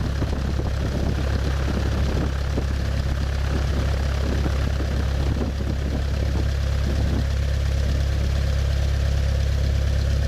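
Cessna 172's piston engine and propeller running steadily at low power, a constant low drone.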